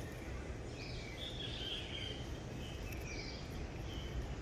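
Outdoor ambience: scattered short, high chirping calls from small animals, several in a row, over a steady low rumble.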